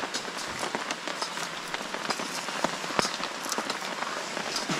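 Heavy rain falling: a steady hiss with many sharp ticks of individual drops striking close by.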